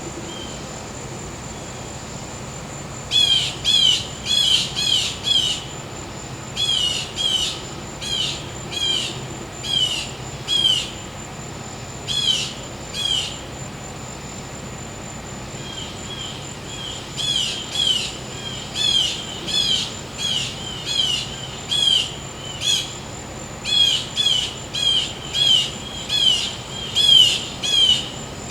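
A bird calling in long series of short, sharply falling notes, about two a second, in two bouts with a pause near the middle. Beneath it runs a steady high insect trill from crickets and a faint low hum.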